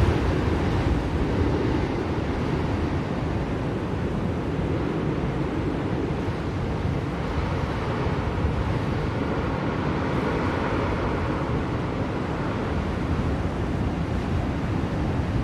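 Blizzard wind blowing steadily, a dense rushing noise with a slight swell in its higher part about eight to eleven seconds in.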